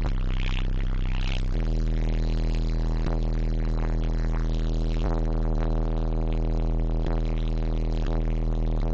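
Bass-heavy music played loud through a car-audio wall of Digital Designs 500-series 15-inch subwoofers in a pickup cab. The deep bass notes hold steady and change about a second and a half in.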